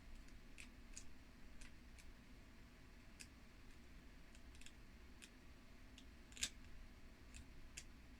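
Near silence broken by faint, irregular small clicks and taps, about a dozen, with one slightly louder click about six and a half seconds in.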